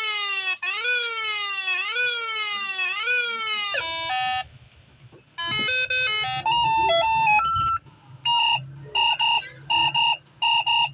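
Toy musical steering wheel's electronic sound effects: a siren that slides down in pitch and jumps back up about every two-thirds of a second for nearly four seconds, then a short electronic tune, then a string of evenly spaced beeps.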